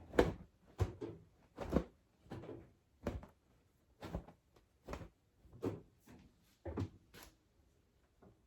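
Laundry being shaken out piece by piece: a quick series of short, sharp fabric flaps and snaps, more than a dozen, roughly one to two a second.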